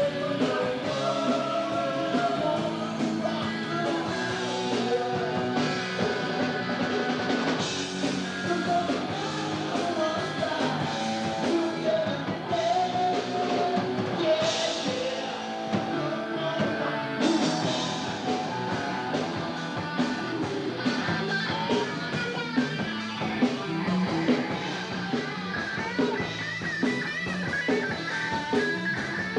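Rock band music with singing.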